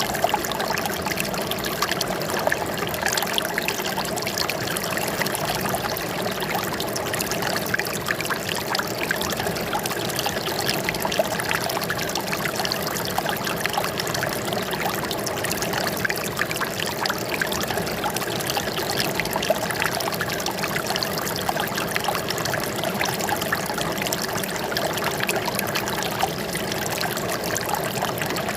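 Running water trickling and splashing steadily, many small splashes over an even rush, without pause.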